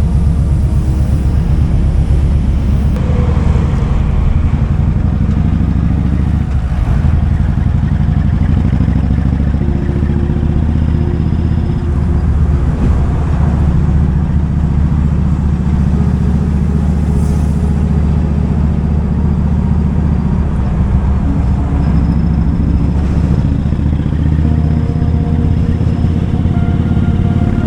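Kawasaki Vulcan 2000's big V-twin engine running steadily at low revs with a deep, even rumble, with no sharp revving.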